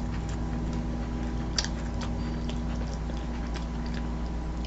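Someone chewing food, with scattered small mouth and utensil clicks, the clearest about a second and a half in, over a steady low hum.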